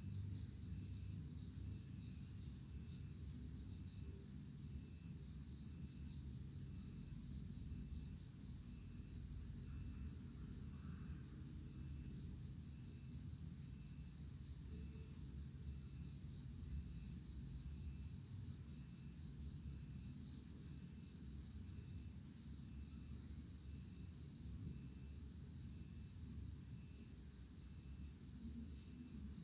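Crickets chirping in a dense, unbroken high-pitched trill.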